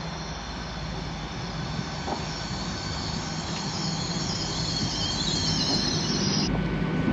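LNER Azuma (Hitachi Class 800) intercity train pulling into the platform. Its rumble grows louder, with high, wavering brake and wheel squeal over it, and the sound cuts off abruptly near the end.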